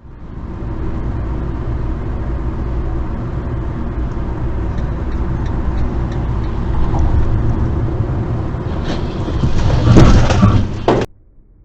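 A car driving, with steady engine and road rumble, swelling near the end into a loud burst of noise that cuts off suddenly.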